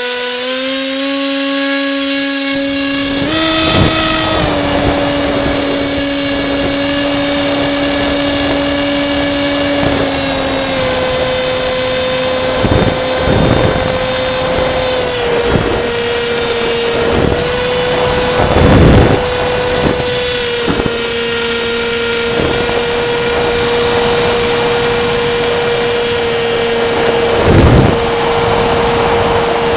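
Home-built RC tricopter's electric motors and propellers whining at a steady pitch after spinning up. The pitch rises briefly about three seconds in and steps down a little around ten seconds, with a few brief louder whooshes of air.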